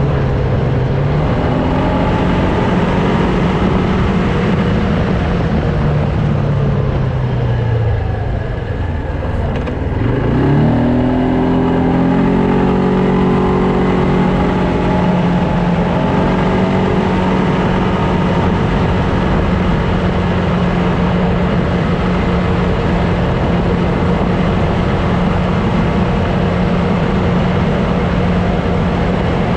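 Loncin X-Wolf 300 quad bike's engine running while riding, easing off so the pitch falls about eight seconds in, then picking up speed again and holding a steady note.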